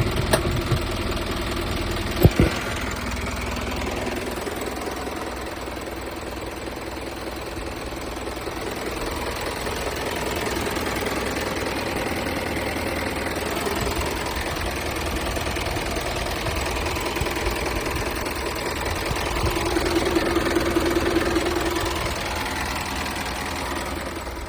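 Isuzu Elf truck engine running steadily at idle, with one sharp knock about two seconds in. Near the end the engine briefly gets louder for a couple of seconds.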